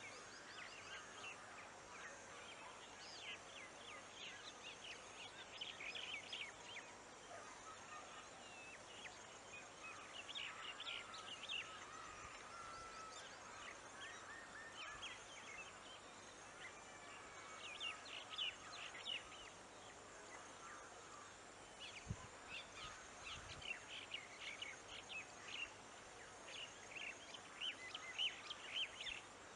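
Birds calling in clusters of quick, short chirps that come every few seconds, with a few gliding notes around the middle, over a faint steady outdoor background.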